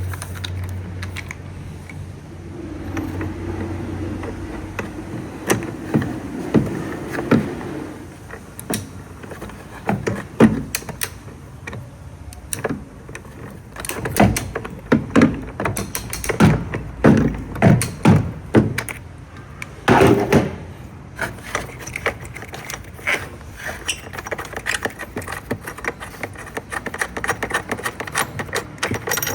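Metal hand tools clinking and knocking on the car's metal fittings as a 14 mm wrench is put to work, with a run of heavier knocks in the middle and quick light clicks near the end.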